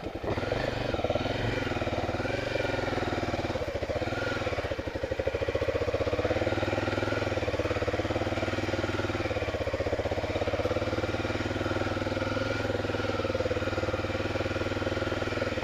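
Honda Tornado 250's single-cylinder four-stroke engine running under load through deep mud, its pitch rising and falling over the first few seconds, then holding steady.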